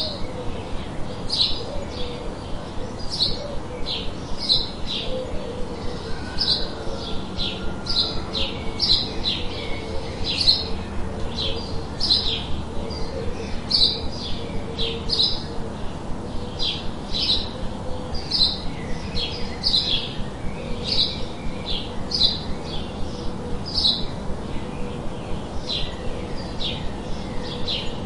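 Small songbirds chirping in a forest, short high calls repeating about one or two a second without a break, over a steady background hiss.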